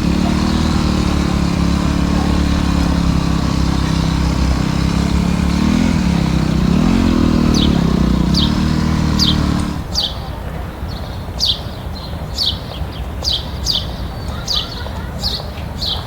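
Dirt bike engine idling, rising briefly twice in pitch, then stopping abruptly about ten seconds in. A bird's short downward chirps repeat about once a second over the last half.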